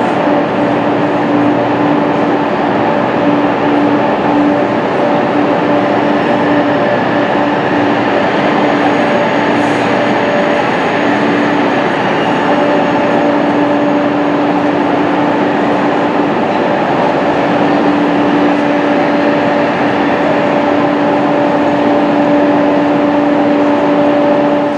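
Stationary Eurostar Class 373 train humming steadily at the platform: a constant pitched drone with one overtone over an even wash of noise.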